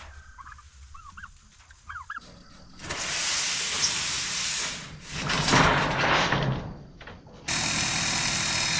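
Turkeys giving short rising-and-falling calls in the first two seconds, followed by several stretches of loud steady hiss, the last one starting abruptly near the end.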